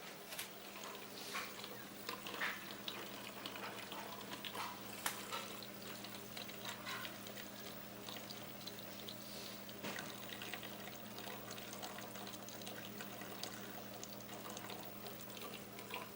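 Washing machine running with water flowing and splashing, over a steady low motor hum.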